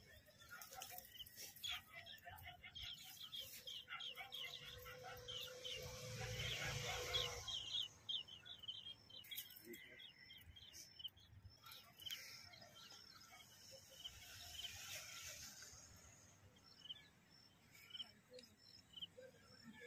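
Small birds chirping and twittering, many short calls, thickest over the first several seconds and thinning later. A brief rush of noise swells and fades about six to seven seconds in.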